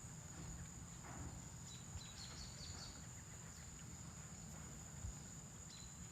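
Faint outdoor ambience: a steady high-pitched drone of insects, with a few short high chirps about two seconds in and again near the end.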